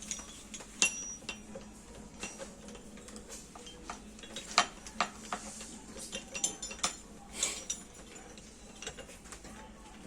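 Irregular metallic clinks and taps of tools and steel parts being handled during work on a sugarcane press, with a few sharper knocks scattered among lighter ticks.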